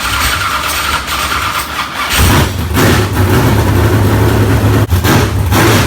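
B-mod V8 race engine cranking on the starter, then catching about two seconds in and running, with several throttle blips. It has just been swapped into the car and this is one of its first start attempts.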